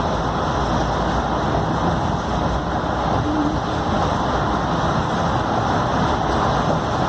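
Scania K310UD double-decker bus under way, its five-cylinder diesel running at a steady note together with steady road and body noise.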